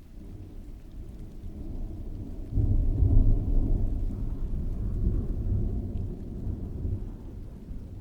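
Rolling thunder over falling rain: a low rumble that builds, jumps sharply louder about two and a half seconds in, then slowly fades.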